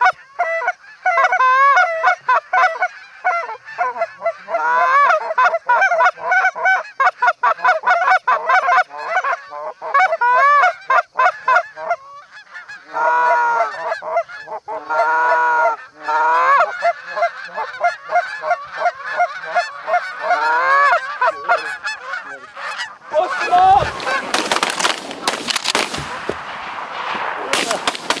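Goose honking, many rapid overlapping honks and clucks for most of the stretch. A quick volley of shotgun shots breaks out about 23 seconds in and carries through the last few seconds as the geese are shot.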